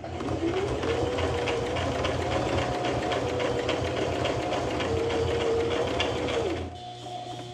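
Sewing machine stitching through strap webbing: the motor speeds up at the start, runs steadily with rapid needle strokes, then slows and stops near the end.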